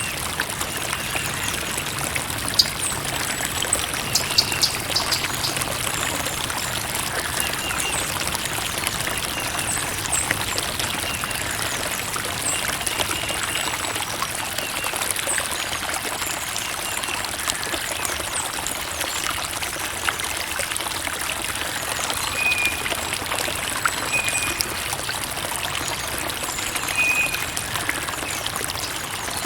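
Creek water trickling and running steadily, with small splashes and short high chirps now and then.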